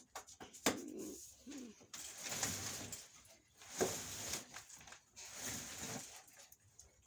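A refrigerator being walked corner to corner across a floor: a sharp knock about a second in, then several scraping, rubbing bursts as it is rocked along, with a couple of short low grunts of effort.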